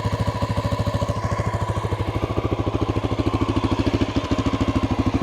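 1988 Honda NX650's single-cylinder four-stroke engine idling on choke during warm-up from a cold start, a steady, even run of firing pulses at about a dozen a second.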